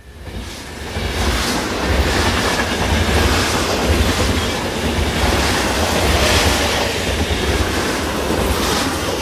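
A train running on rails, a steady loud rumble with rail noise, fading in at the start.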